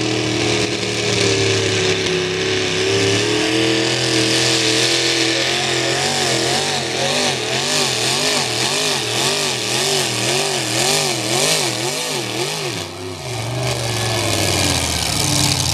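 Pulling truck's engine running at high revs under load while dragging a weight sled. From about five seconds in, its pitch wobbles evenly up and down, about twice a second. Near thirteen seconds the revs drop off and fall.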